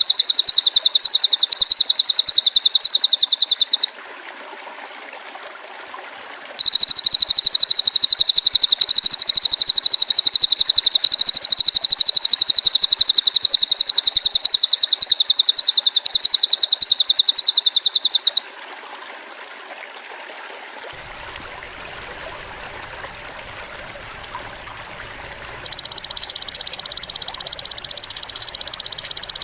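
Masteran recording of cililin bird and belalang emas (golden grasshopper) calls: two long bursts of a very high, rapid, pulsing trill separated by quiet hiss, then near the end a lower, steadier buzzing trill.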